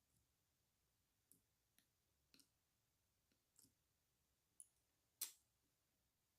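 Faint sharp clicks and pops from slime being handled, as trapped air bubbles snap: about six scattered clicks, the one near the end the loudest.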